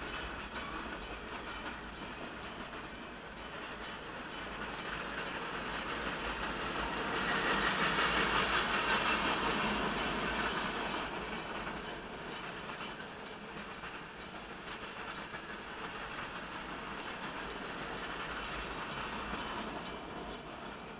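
Norfolk Southern freight train rolling past, a steady rush and clatter of its wheels on the rails, swelling to its loudest about a third of the way through and then easing off.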